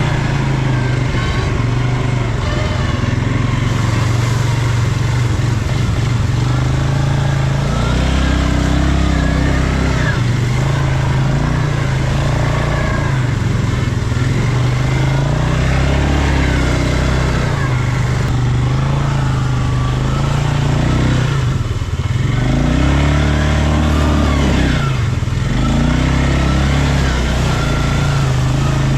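ATV engine running continuously and loud, its pitch rising and falling again and again as the throttle is worked.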